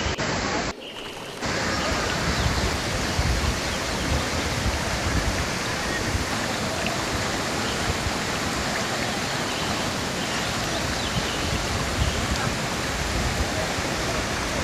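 Small waterfall rushing steadily into its pool, a dense even roar of falling water, broken by a brief drop in level about a second in.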